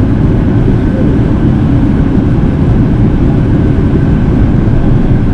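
Steady engine and airflow noise heard inside the cabin of an Airbus A380 in flight, heavy and low, with a faint steady whine above it.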